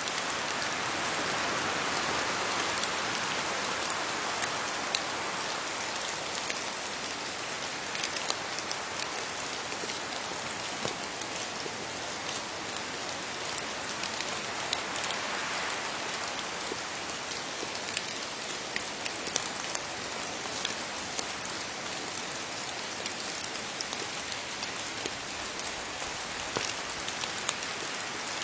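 Steady rain falling on leaves, an even hiss dotted with many separate drop taps. The rain swells slightly near the start and again about halfway through.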